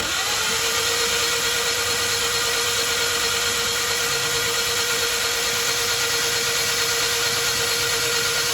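A machine running steadily: a constant mid-pitched whine over a loud, even hiss, starting abruptly at the beginning.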